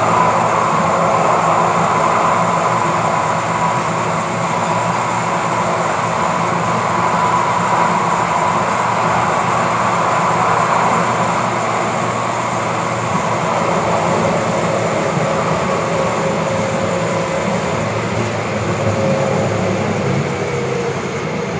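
Interior of a Siemens-Duewag U2 light rail car running at speed: steady wheel-on-rail rumble and running noise with a constant whine from the drive.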